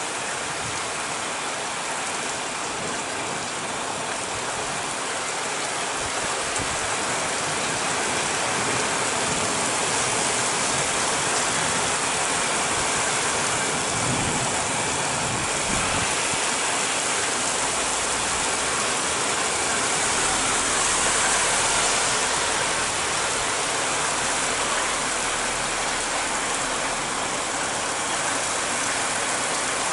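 Heavy downpour: rain falling steadily in a dense, even hiss, growing slightly louder through the middle.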